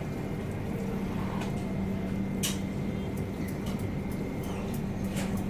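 Steady low mechanical hum of a train, with a sharp click about two and a half seconds in and another about five seconds in.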